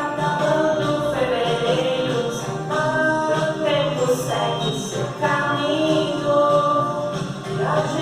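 A children's song about growing up, sung over continuous musical backing, with the held sung notes sliding from one pitch to the next.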